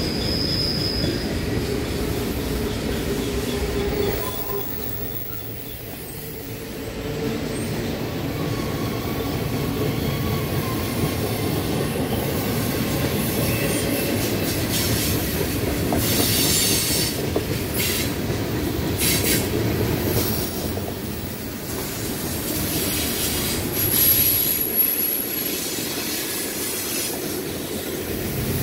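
Freight cars of a mixed manifest train rolling past on curved track: a steady rumble and rattle of steel wheels on rail, with brief high wheel-flange squeals, one at the start and another near the end, and a run of sharp clanks in the middle.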